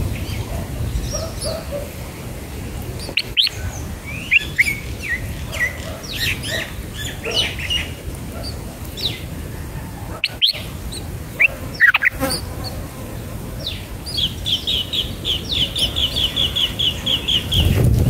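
Red-whiskered bulbul and its nestlings at the nest: short, sharp chirps scattered through, then a rapid run of about five high notes a second lasting over three seconds near the end, over a steady low rumble.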